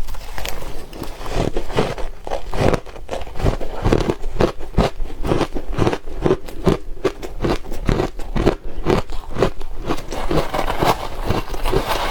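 Close-up crunching of soft ice being bitten and chewed, a quick run of crisp crunches a few times a second.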